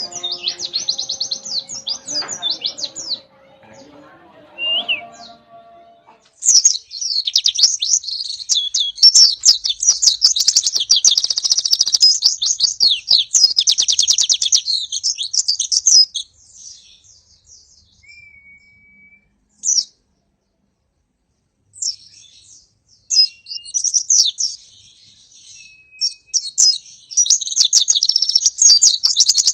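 White-eye (pleci) singing a fast, dense, high-pitched chattering song in long bouts. It breaks off for a few seconds in the middle, then starts again. A few low steady tones sound under the song in the first few seconds.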